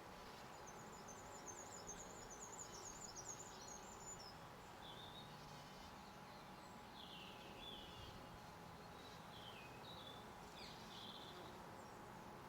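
Faint songbirds calling: a quick run of high twittering notes in the first few seconds, then scattered chirps through the rest, over a steady low background hum.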